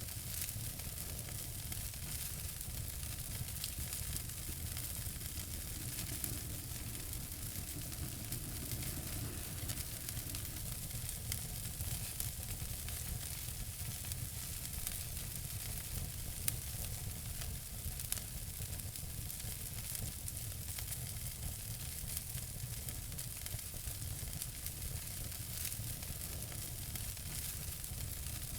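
Wood fire burning in a fireplace: a steady hiss and low rumble with continual small crackles, and two sharper pops about halfway through.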